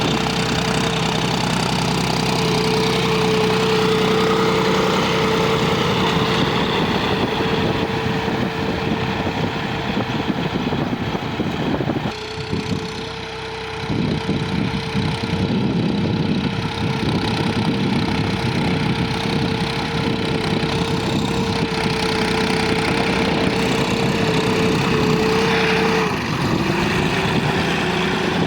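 John Deere 5045 tractor's diesel engine running steadily with a constant whine. The sound dips briefly about halfway through, and the whine drops slightly in pitch near the end.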